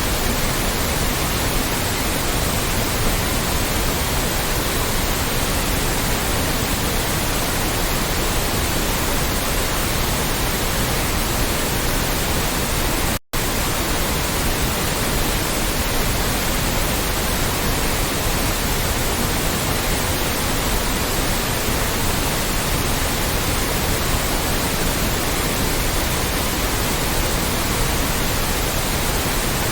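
Loud, steady synthetic white noise, an even hiss with no tones or rhythm. It cuts out completely for a split second about thirteen seconds in, then resumes.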